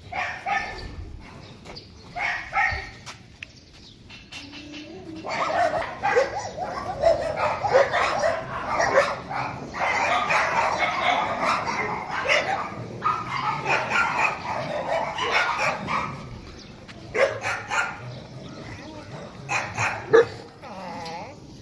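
Many dogs barking at once, a dense overlapping chorus of barks and yips. It starts with a few separate barks, swells into continuous barking for about ten seconds, then thins back to scattered barks near the end.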